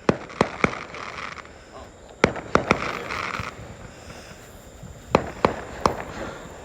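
Small consumer fireworks going off: about ten sharp pops in quick groups of two or three, with fizzing hiss between the first groups.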